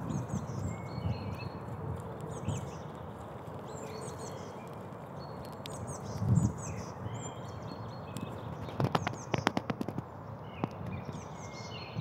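Small birds chirping in short, repeated calls over an uneven low rumble, with a quick run of sharp clicks about three quarters of the way through.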